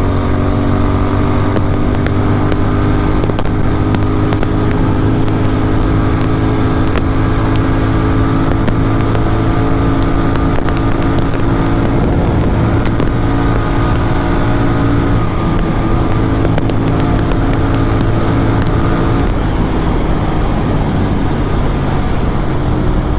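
Superbike engine running under steady load while riding, its pitch creeping up slowly with a couple of shifts in engine speed about two-thirds of the way through, over a steady rush of wind and road noise.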